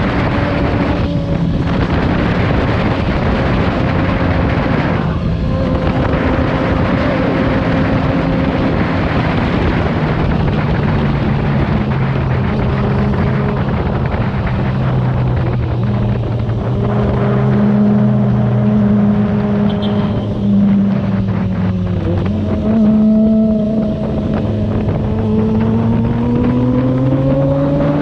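Kawasaki Z1000R's inline-four engine on its stock exhaust, running under way at steady moderate revs with wind rushing over the microphone. The engine note dips briefly about three quarters of the way through, then climbs steadily as the bike accelerates near the end.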